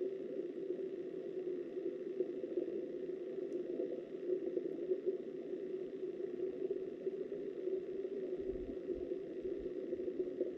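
Steady, muffled rush of flowing river water heard through an underwater camera's waterproof housing, with a few low bumps near the end.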